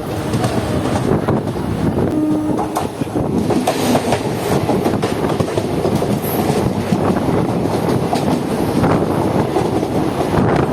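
Moving passenger train, its wheels clattering steadily over the rail joints.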